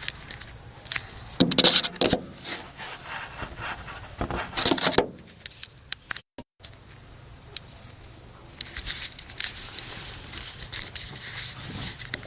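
Volvo 240 GL engine idling as a low steady hum, with loud bursts of scraping and rustling over it. The owner takes the engine's knock for piston slap.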